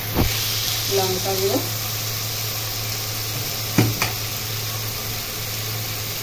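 Onions and ground spice pastes frying in hot oil in a kadai, a steady sizzle, with a few sharp clicks of a spoon or spatula against the pan as chilli powder goes in, once early on and twice near four seconds in.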